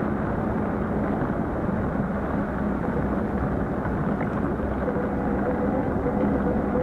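Steady rushing noise of an electric fat bike being ridden: wind on the microphone and the fat tyres rolling, with a faint steady whine joining about five seconds in.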